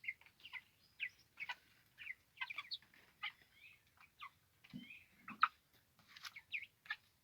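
Young chicks peeping while they feed: many short, high chirps in quick, irregular succession, with two brief lower sounds about five seconds in.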